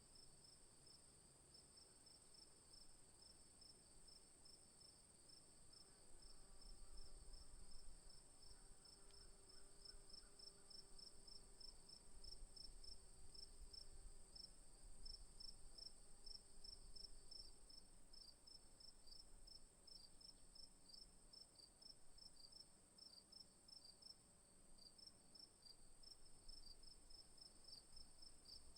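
Faint insect chorus: rapid, evenly repeated chirping with a steady high-pitched drone beneath it.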